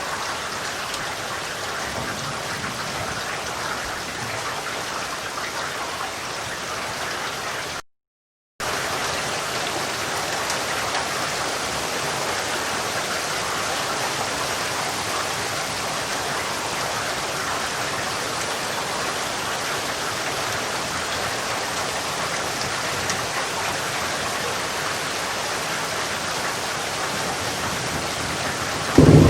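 Steady heavy rain falling, an even hiss that cuts out completely for under a second about eight seconds in, then comes straight back. At the very end a loud, deep clap of thunder begins.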